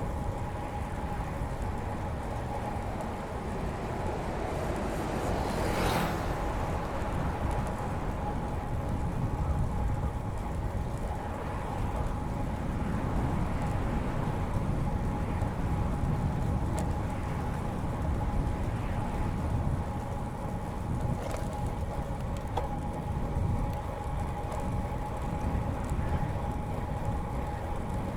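Wind rushing over the microphone and road-bike tyres rolling on a paved bike path while riding, a steady low rumble with a faint steady whine through it. It swells briefly to a sharp peak about six seconds in.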